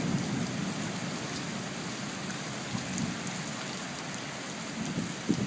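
Steady heavy rain falling, a dense even hiss with a few drops ticking. A low thunder rumble dies away in the first second.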